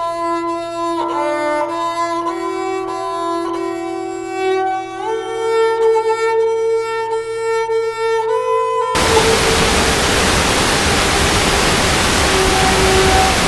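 Slow background music with sustained, violin-like bowed notes for about nine seconds, then it cuts off suddenly and the steady rush of a waterfall takes over, with a few faint notes still under it.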